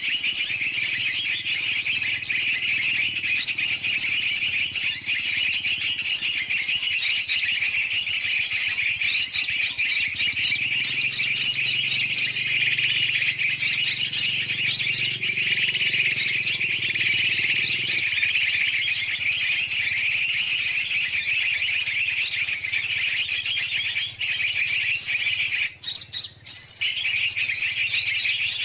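A dense, unbroken chorus of many birds chirping and chattering over one another: a bird-lure recording mixing the calls of large and small birds. About three-quarters of the way through, the sound briefly drops out.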